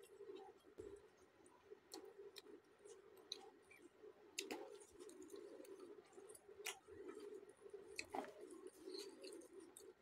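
A man chewing a mouthful of roti and curry, with soft wet mouth clicks and smacks scattered through. Several sharper smacks come a little before halfway and again toward the end.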